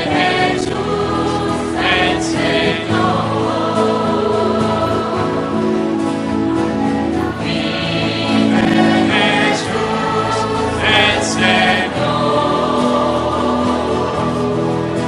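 Choir singing Christian music with accompaniment.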